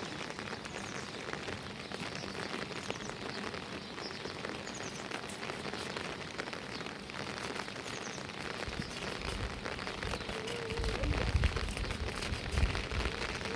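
Rain falling steadily, with many separate drops ticking. About nine seconds in, a deep low rumble joins and grows louder toward the end.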